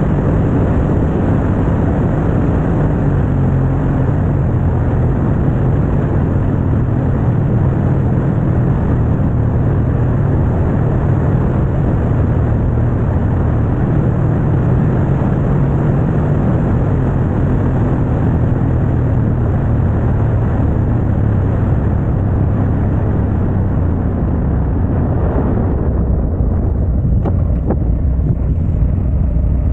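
Harley-Davidson motorcycle engine running steadily under way, with rushing road and wind noise; the hiss eases somewhat about four seconds before the end.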